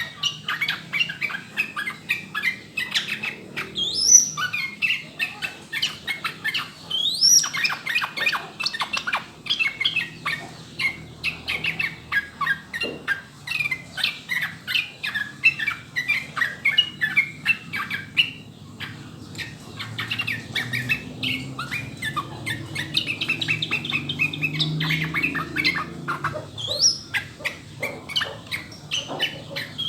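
Yellow-vented bulbul (trucukan) singing a long, continuous run of rapid chattering notes, broken now and then by a sharp rising whistled note.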